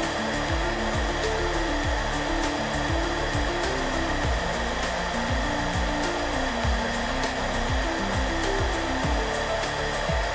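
Hair dryer running steadily, a constant airy rush, with soft music mixed underneath: a melody of short notes over a regular beat.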